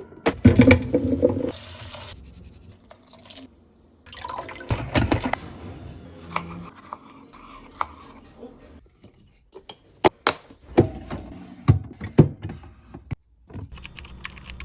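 Liquid being poured into a container, with a filling sound near the start, followed by a series of sharp clicks and knocks as containers and packages are handled and set down.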